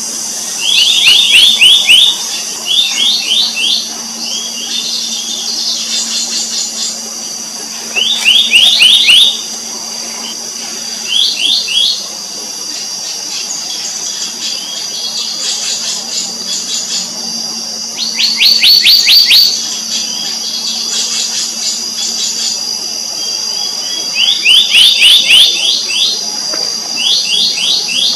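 Black-naped monarch calling: short runs of quick, sharp, repeated notes, each run lasting about one to two seconds and coming again every few seconds. Under it is a steady high-pitched drone.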